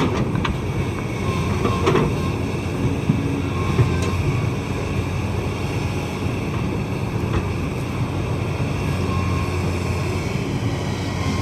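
Kobelco excavator's diesel engine running steadily, with a few short sharp knocks now and then.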